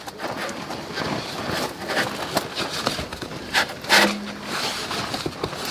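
Intermittent knocks, clicks and scraping of camping gear being handled during campsite setup, with the loudest knock about four seconds in.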